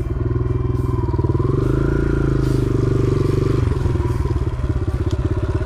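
Motorcycle engine running close to the microphone. About a second and a half in it revs up and holds high revs, then a little past halfway the throttle closes and the revs drop abruptly back to a lower, pulsing run.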